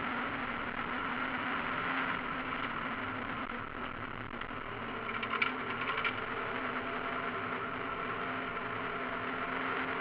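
Mazda MX-5 race car's four-cylinder engine running under racing load, heard from inside the cockpit, its note easing briefly a few seconds in and then pulling again. A few sharp clicks sound about halfway.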